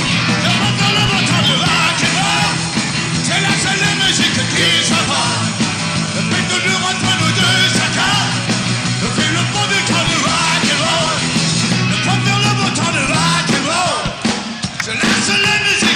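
Live rock music: a full band with a steady, heavy low end, and a male voice singing loudly over it.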